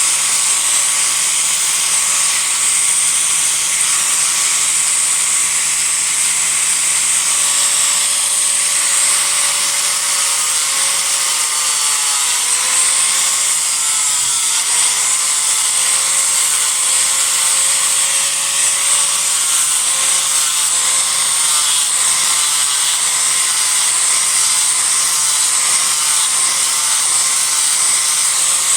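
Angle grinder running continuously while grinding into a block of Japanese cedar to rough out a carving, with a steady high hiss. Its whine dips in pitch several times as the disc bites into the wood under load.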